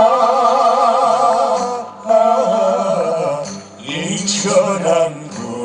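Choir singing a Korean trot song over instrumental accompaniment, with long held notes that waver in vibrato and two short breaks between phrases.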